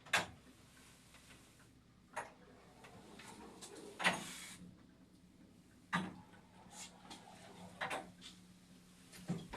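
A 1981 MLZ elevator's mechanism clicking: seven sharp clicks a second or two apart. A low steady hum sets in about four seconds in and stops with a click near the end.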